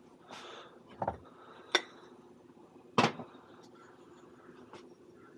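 Kitchen clatter of dishes and utensils being handled: a dull knock about a second in, a sharp ringing clink a little later, a louder knock about three seconds in, then a few light clicks.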